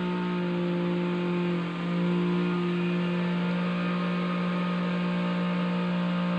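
A steady, low mechanical drone at one unchanging pitch, like a motor or engine running continuously, with a brief dip in level about two seconds in.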